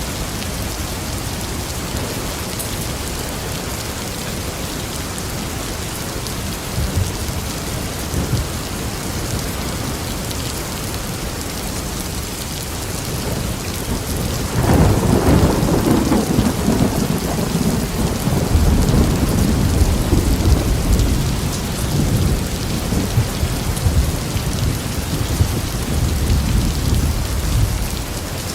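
Steady heavy rain hissing on surfaces, with a loud clap of thunder breaking in about halfway through and rumbling on in rolling swells until shortly before the end.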